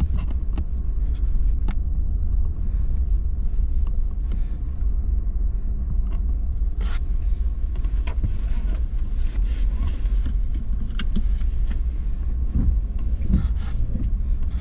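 Steady low rumble of a vehicle driving slowly, heard from inside the cab, with scattered light clicks.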